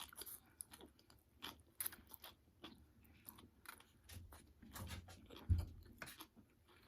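Close-up chewing and biting of food: an irregular run of small clicks and crunches.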